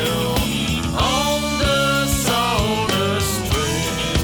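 A country gospel band playing with guitar and sung held notes.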